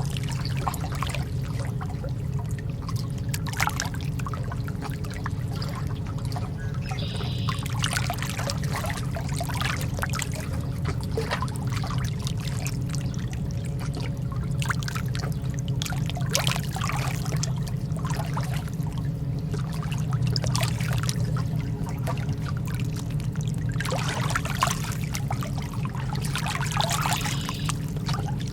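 Lake water lapping and trickling at the shore in small irregular splashes, over a steady low rumble.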